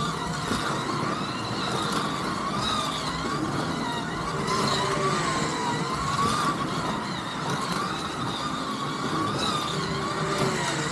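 Scalextric slot car electric motors whining steadily, the pitch rising and falling as the cars speed up and slow down around the track.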